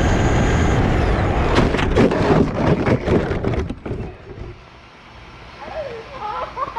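Electric RC car driving close by: a loud rushing noise with quick rattling clicks from the tyres and chassis on the pavement, dropping away sharply about four seconds in.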